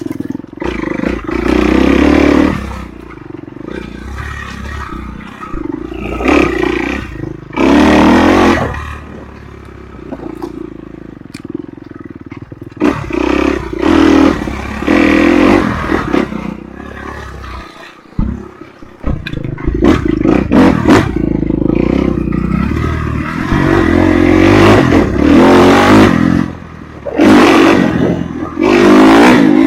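Enduro dirt bike engine being ridden on a trail, revving up in repeated bursts and easing off between them.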